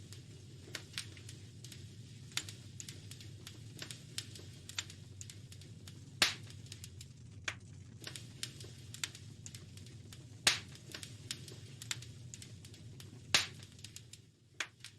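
Wood fire crackling in a fireplace: frequent small snaps and three louder pops, over a low steady rumble.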